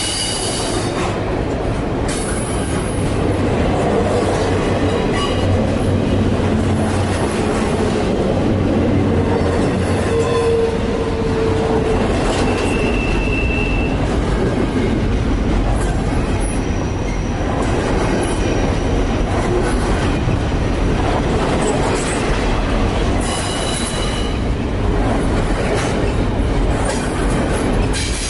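Freight train cars rolling past at close range: steady wheel-on-rail rumble with clicks over rail joints and short, high wheel squeals now and then, strongest about halfway through.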